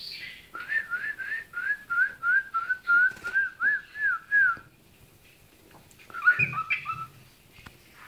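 Pet cockatiel whistling a quick run of about a dozen short, up-and-down notes, roughly three a second, then a brief burst of chirpy chatter about six seconds in.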